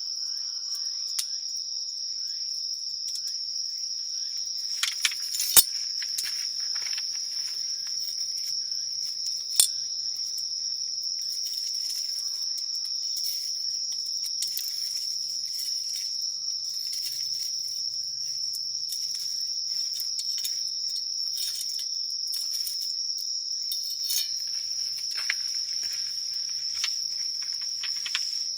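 A steady, high-pitched chorus of insects, with scattered crackles and pops from a wood campfire; the sharpest pops come about five and a half and nearly ten seconds in.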